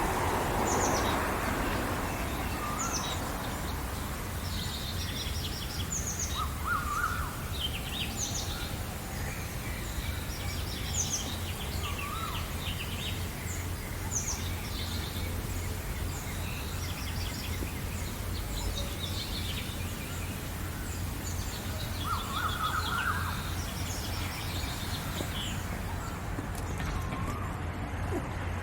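Several songbirds chirping and trilling in short, repeated phrases, with a few lower calls now and then, over a steady low rumble.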